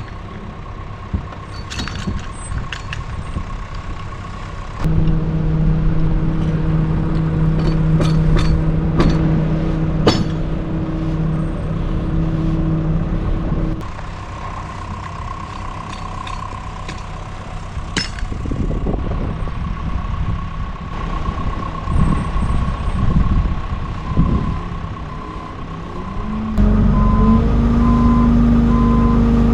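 Tow truck engine running, raising its revs about five seconds in, settling back partway through, and revving up again near the end as a reversing beeper starts beeping. Scattered sharp knocks and clanks of the recovery rigging are heard.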